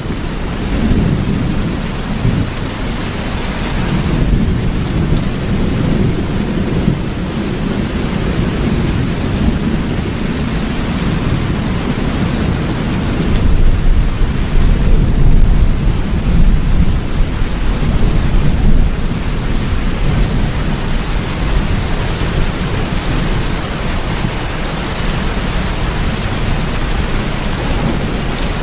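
Steady rain with a low thunder rumble underneath that swells louder about halfway through, then settles back.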